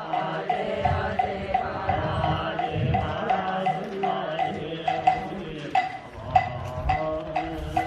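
Buddhist ritual chanting kept in time by a moktak (wooden fish), struck at a steady beat of about two knocks a second.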